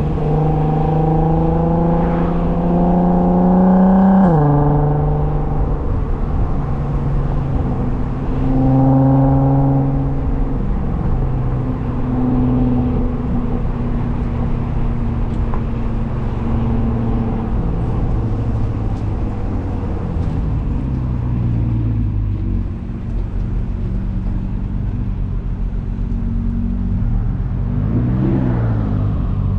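A car engine pulling under acceleration: its pitch climbs for about four seconds, drops abruptly at an upshift, and climbs again briefly around nine seconds in. It then settles into steady cruising with road and tyre noise underneath.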